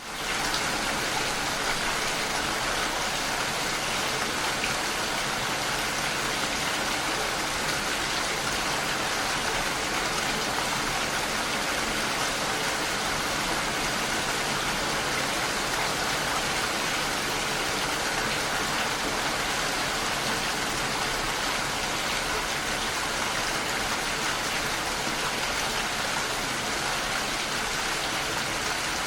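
Steady, dense rainfall, a continuous even hiss of falling rain that fades in quickly from silence at the start and then holds level.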